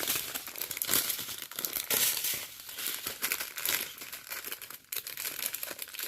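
Plastic packaging crinkling and rustling as it is handled, in a run of irregular crackles that are loudest at the start and about two seconds in.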